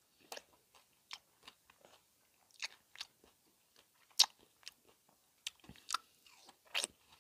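Close-miked biting and chewing of a ripe kiwi fruit slice: scattered short, moist clicks and small crunches, the loudest about four seconds in.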